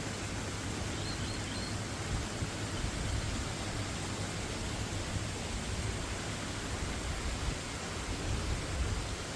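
Steady outdoor rushing noise, with a faint brief high chirp about a second in.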